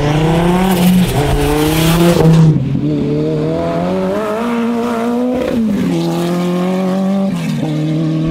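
Rally car engine driven hard, its pitch climbing and dropping at gear changes several times. A rush of higher noise rides over it for the first two and a half seconds, loudest about two seconds in, then cuts off.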